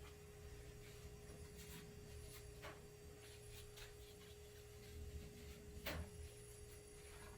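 Near silence: faint room tone with a steady low hum and a couple of faint clicks.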